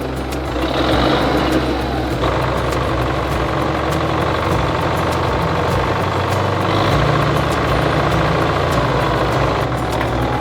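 An MTZ-82 tractor's diesel engine running steadily at a low idle, with a steady whine above the engine note from about two seconds in until near the end.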